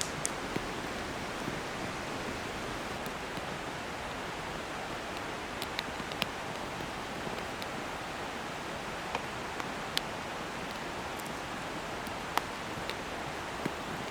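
Steady rush of a clear mountain stream, with scattered sharp pops from a crackling campfire.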